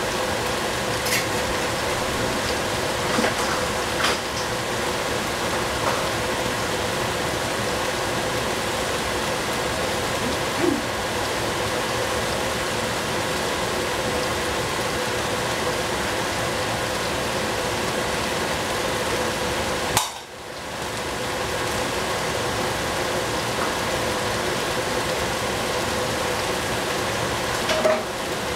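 Eggplant frying in a pan: a steady sizzle with a few light clicks and taps of a utensil against the pan. The sizzle drops out briefly about two-thirds of the way in, then returns.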